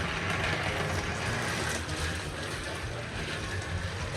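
Battery-powered toy train's small electric motor and gears whirring steadily as it runs along plastic track, with a fluttering low hum underneath.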